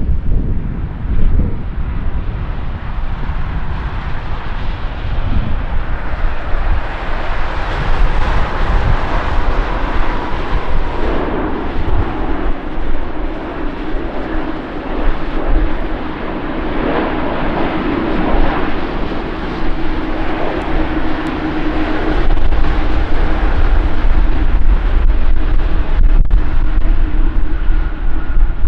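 Airbus A330 airliner's jet engines, a continuous loud rushing noise with a droning tone through the middle, over a heavy low rumble that grows louder over the last several seconds. The recording is poor: a new microphone that gave very bad audio.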